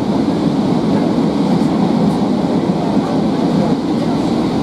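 Interior running noise of a Transport for Wales Class 153 diesel railcar travelling at speed: the underfloor diesel engine and the wheels on the rails make a steady, even noise.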